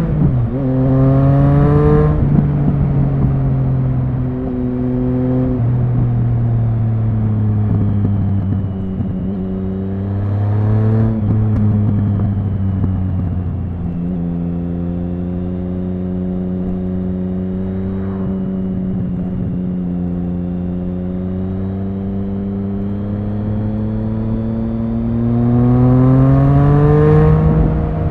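Triumph Speed Triple 1050's inline three-cylinder engine and exhaust in city riding. It pulls up through a gear change near the start, climbs and falls off again around the middle, holds a steady note for a long stretch, then accelerates again near the end.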